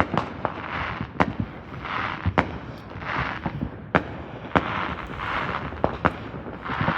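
Consumer fireworks going off: about ten sharp bangs at irregular intervals, with short bursts of crackling hiss between them.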